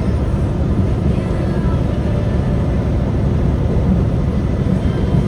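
Steady low rumble of a truck on the road, an even drone without breaks or changes.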